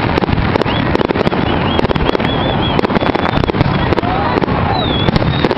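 Fireworks bursting overhead, a dense rapid run of bangs and crackles with no letup. High wavering whistles come in about two seconds in and again near the end.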